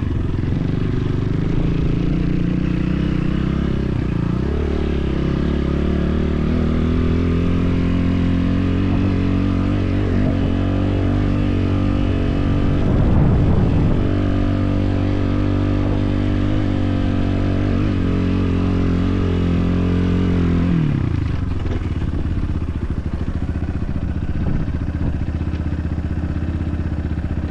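BSE enduro motorcycle engine running: its note climbs a few seconds in, holds steady for a long stretch, then drops about twenty seconds in as the throttle comes off.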